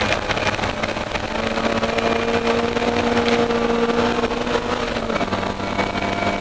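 Austin Mini Cooper racing car's BMC A-series four-cylinder engine pulling hard under full throttle, heard from inside the cabin. Its note climbs slowly, then drops about five seconds in.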